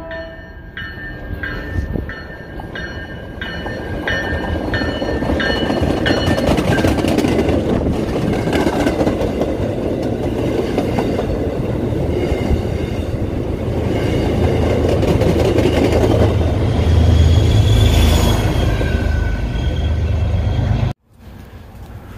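MBTA commuter train passing close along a station platform: its bell rings about twice a second as it comes in, then the rumble of the bilevel coaches rolling by builds and holds. The sound cuts off abruptly near the end.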